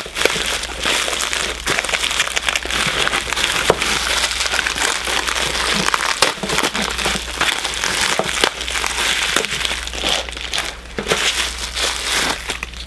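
Plastic bag around a Funko Soda figure crinkling and rustling continuously as it is handled and pulled open, with many small crackles and clicks; the bag is partly melted.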